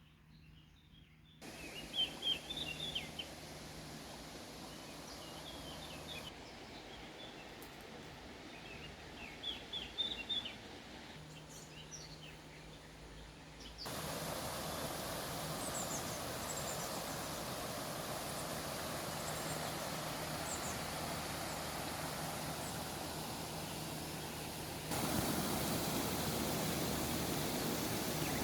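Birds chirping in short bursts over the steady rush of flowing water. The water jumps louder about halfway through and again near the end.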